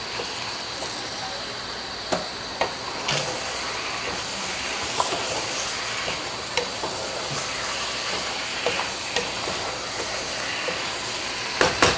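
Yogurt-marinated chicken pieces sizzling in hot oil with an onion and tomato base in a pot: a steady frying hiss that grows a little about three seconds in, with a few light clicks.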